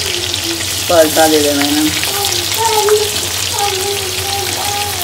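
Stuffed round gourds (tinde) frying in oil in an aluminium pan, a steady sizzling hiss. A voice is heard faintly in the background now and then.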